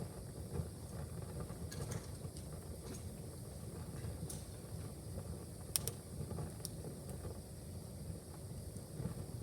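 Wood fire burning in a fireplace: a steady low rumble with scattered sharp crackles and pops, the loudest pop about six seconds in.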